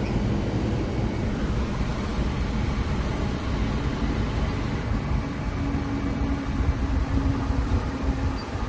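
Steady car noise: a low rumble under an even hiss, with a faint steady hum joining in past the middle.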